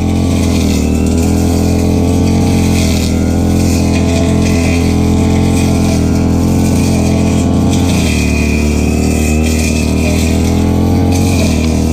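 Stihl FR 3001 backpack brush cutter's two-stroke engine running loud and steady at throttle, its pitch shifting slightly about eight seconds in.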